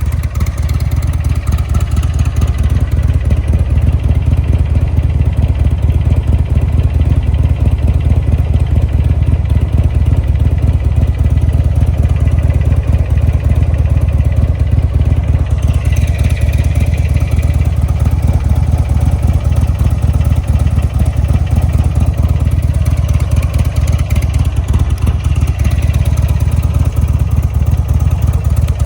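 2004 Buell XB12S Lightning's 1203 cc air-cooled V-twin running steadily with a dense, even pulse, without clear revving. A higher-pitched hiss joins it about halfway through.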